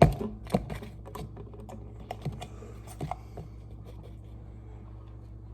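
Small plastic clicks, taps and rattles of a BCAA supplement powder tub and its scoop being opened and handled, sharpest at the very start and about half a second in, thinning out after about three and a half seconds, over a faint steady low hum.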